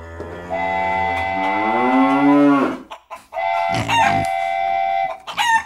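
Cattle mooing: two long moos one after the other, then a brief high sweeping call near the end.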